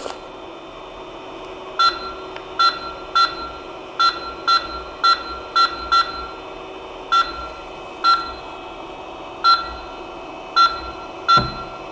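Creality CP01's control panel beeping at each button press while the laser head is jogged into position: about fifteen short, identical beeps at uneven intervals, over a steady machine hum.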